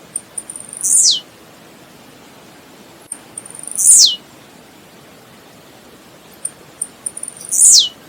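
Blue-black grassquit (tiziu) singing its short song three times, about three seconds apart: each a quick run of high ticks that speeds up into one loud, sharply falling note.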